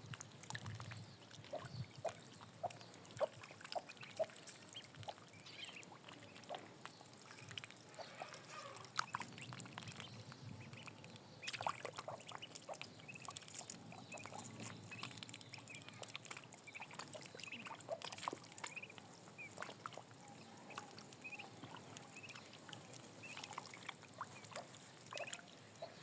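Ducks on the water making scattered short quacks, with faint splashing and dribbling water throughout.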